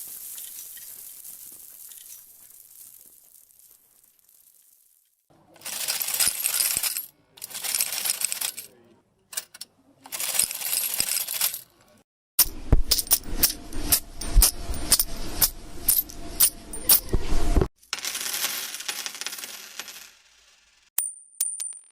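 Metal coins in a string of separate short takes. First comes a fading hiss, then three bursts of coins jingling. The loudest is a five-second stretch of coins clattering and clinking with heavy thuds, as if dropped or poured onto a hard surface, followed by one more jingle and two single clinks near the end.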